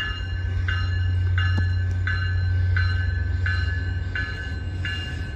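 Railroad grade-crossing bell ringing steadily, about one and a half strikes a second, over the steady low rumble of a train.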